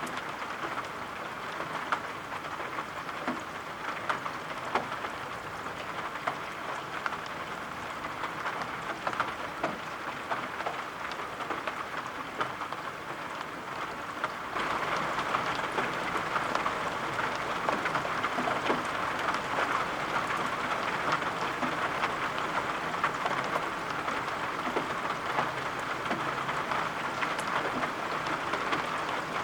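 Steady rain falling, with scattered taps of individual drops; it gets abruptly louder about halfway through.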